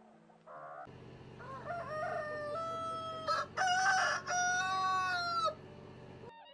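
Rooster crowing: one long cock-a-doodle-doo of several held notes, loudest in its second half.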